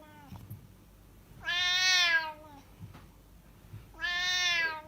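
Domestic cat meowing twice, each a long drawn-out meow of about a second.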